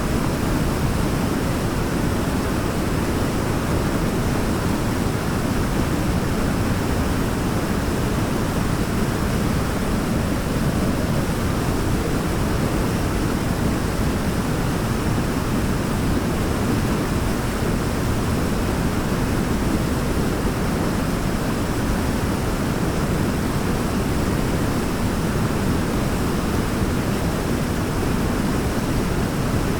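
Waterfall: a steady, unbroken rush of falling water, strongest in the low range.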